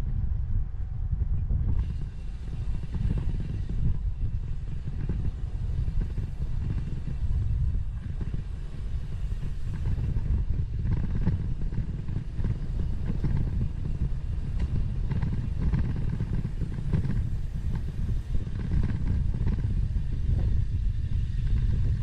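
Wind rumbling on the microphone of a bicycle-mounted 360° camera while riding, with faint rattles on top.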